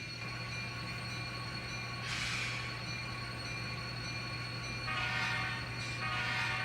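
Sound-equipped N scale diesel locomotives playing through their small onboard speakers. A steady engine hum runs underneath, with a hiss of air about two seconds in and two horn blasts near the end.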